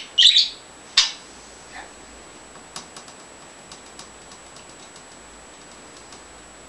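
A pet bird gives a couple of short, high chirps in the first second, then a run of faint, irregular light ticks, a few a second, from the bird tapping at a hard surface.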